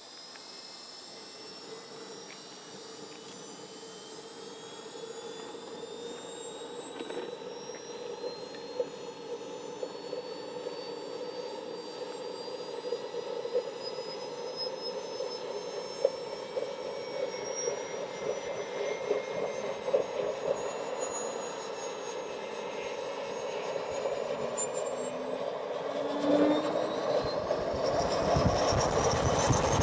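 Model jet turbine engines of a twin-turbine MiG-29 scale model spooling up: a high whine that climbs slowly and steadily in pitch while the rushing exhaust grows louder, loudest over the last few seconds.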